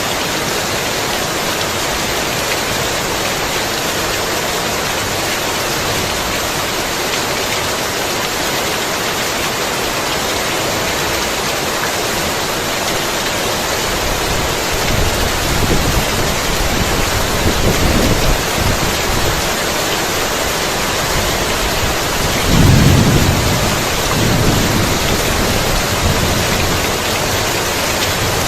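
Heavy rain falling steadily, with thunder rumbling in low about halfway through, loudest about two-thirds of the way in.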